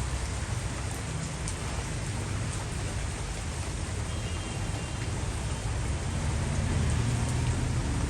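Heavy rain pouring down steadily, with a low rumble building near the end.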